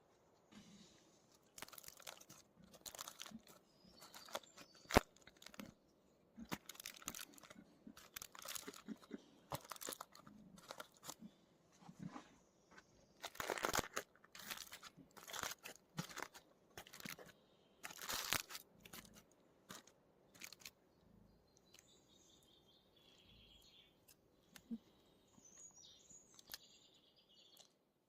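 Crunching and crinkling handling noise as the campfire-cooked fish is taken out and opened up, in irregular rustles for the first two-thirds. Then birds chirping faintly.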